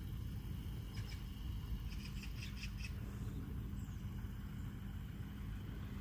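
A steady low rumble with a small bird chirping: one short chirp about a second in, then a quick run of about six high chirps.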